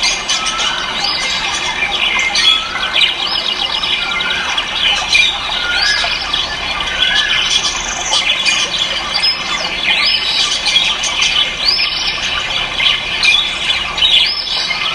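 Many caged ornamental birds calling at once: a dense, loud chorus of squawks and chirps, with one short rising call repeated about once a second.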